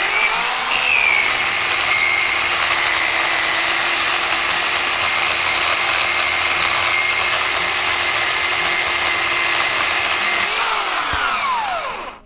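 DekoPro 8-amp corded electric pole chainsaw cutting through an oak branch, a steady electric motor whine with chain noise. Near the end the pitch briefly rises, then winds down to a stop as the saw is switched off.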